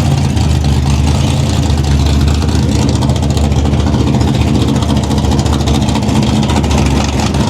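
A show car's engine running loud through its exhaust, held at a steady speed, then dropping off sharply at the very end.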